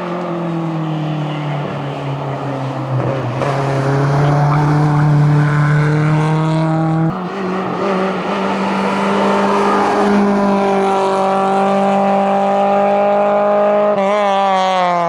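Peugeot 106 hillclimb car's engine pulling hard and growing louder as it approaches. The engine note sags slowly, then jumps up sharply at a gear change about seven seconds in. It holds high before dropping away as the car passes near the end.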